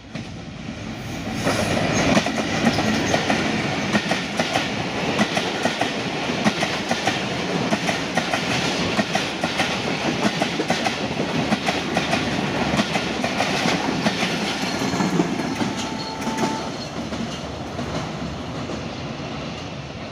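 Passenger train hauled by a WDM3A diesel-electric locomotive passing close by: the locomotive's diesel engine swells as it goes past in the first seconds, then the coaches' wheels clack fast and steadily over the rail joints. The sound eases off as the end of the train goes by.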